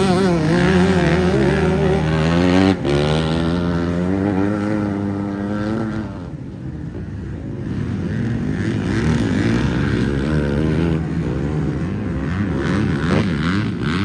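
Motocross bike engines revving up and down as bikes ride the track, with a short break in the engine note about three seconds in. The sound drops off around six seconds in, then rises again as more bikes come through.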